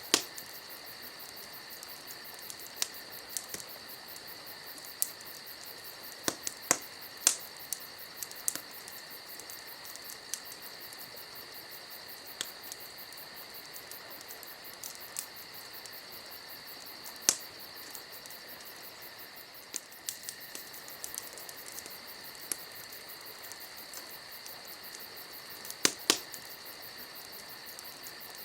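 Wood campfire crackling, with irregular sharp pops and snaps and a louder double pop near the end, over a steady high-pitched chorus of night insects.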